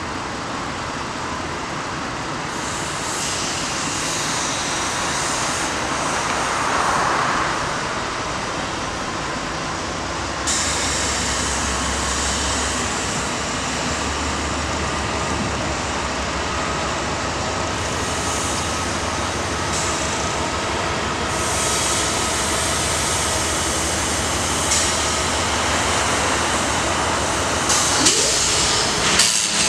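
Train passing on the track: a steady, loud rumble and rattle of wheels on rail, with a faint high steady whine through the middle and a couple of sharp clicks near the end.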